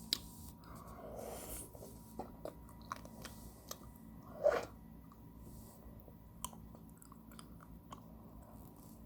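Ice cream being eaten close to the microphone: scattered crunching bites and chewing clicks, with a louder mouth sound about four and a half seconds in.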